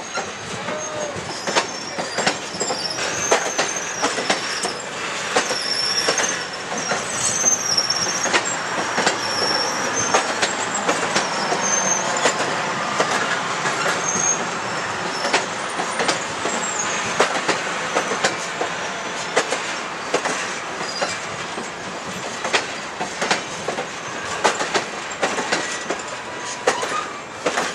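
Circus train's railcars rolling slowly past on the track, the wheels clicking irregularly over rail joints under a steady rumble, with a thin wavering wheel squeal in the first half.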